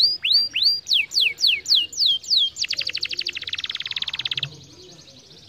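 Canary singing: a series of clear whistled notes, about three a second, each sliding in pitch. Then a very fast rolling trill for about two seconds, which stops about a second before the end.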